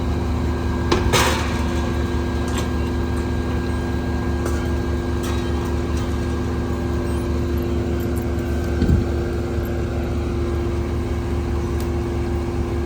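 Large diesel engine idling steadily with a constant low drone, typical of fire apparatus standing by. A sharp knock sounds about a second in.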